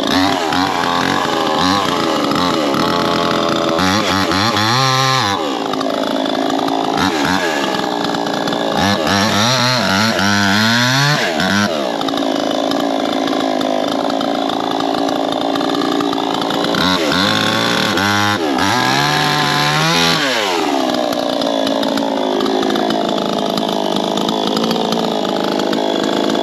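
Proyama 68cc two-stroke chainsaw running at high revs while cutting wood with a 24-inch bar. Its pitch sags and recovers several times as the engine labours under load.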